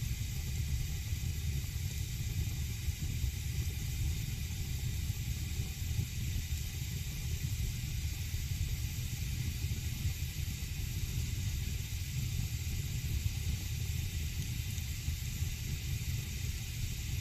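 Wood fire burning in a fireplace, a steady low rumble with an even hiss over it.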